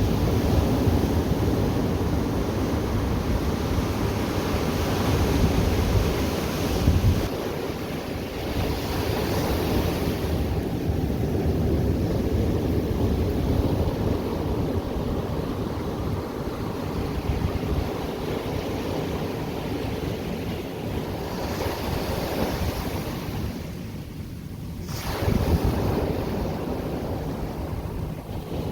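Ocean surf breaking and washing ashore in continuous surges, with wind buffeting the microphone as a low rumble. Near the end the wash dips briefly, then another wave surges in.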